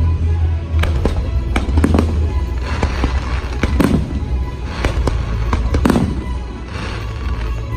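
Fireworks going off in an irregular series of sharp bangs, about a dozen in the span, with the show's music soundtrack playing underneath with a heavy bass.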